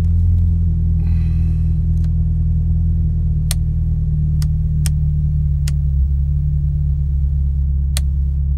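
Mazda MX-5 NC's four-cylinder engine idling steadily, with five sharp switch clicks spread through the middle and near the end as dashboard controls are toggled.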